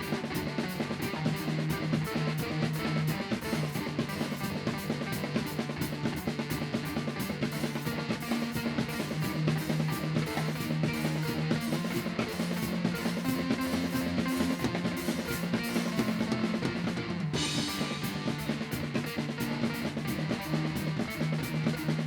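Rock band music without vocals: a drum kit keeping a fast, even beat on the cymbals over sustained bass and guitar notes. About three quarters through, the cymbals drop out for about a second and come back in with a crash.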